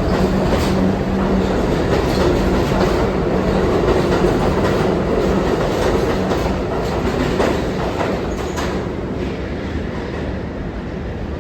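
R62 subway car running on the rails, its wheels clicking over rail joints above a steady rumble, the sound easing off over the last few seconds.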